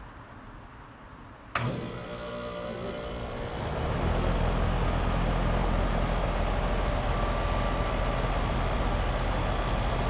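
Goodman GMC central air conditioner condenser starting up suddenly about a second and a half in, building over the next couple of seconds, then running steadily and noisily. This time it starts normally, without the delayed start and buzzing the owner puts down to a contactor that might be dying.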